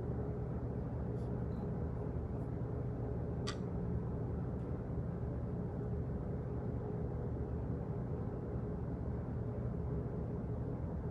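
Office background noise: a steady low rumble with a faint hum, and a single sharp click about three and a half seconds in, with a few fainter ticks around it.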